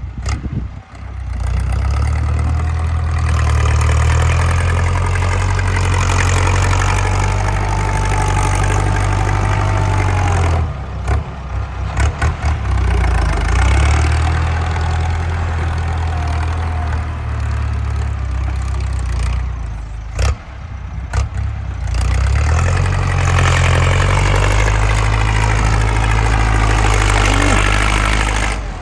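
Ford 6640 tractor's diesel engine running hard under load with a loud exhaust, its pitch rising and falling. It drops off briefly twice, about ten and twenty seconds in, then comes back up.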